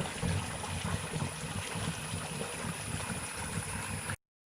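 Water flowing freely out of a well's overflow drain pipe, running strongly now that the mud blocking it has been cleared. It cuts off suddenly about four seconds in.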